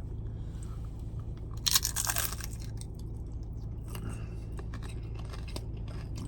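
Close-up crunching of loaded tortilla chips being bitten and chewed, with one loud crunch about two seconds in and small crackles after it, over a steady low hum.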